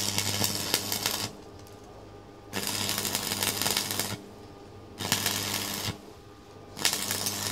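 Electric arc welding on a motorbike exhaust pipe: the arc crackles and sputters in four short runs of about a second each, with brief pauses between them and an electrical hum beneath.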